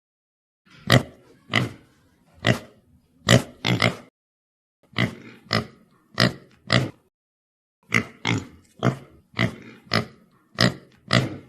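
Domestic pig grunting: a string of short, sharp oinks in three quick runs with brief pauses between them.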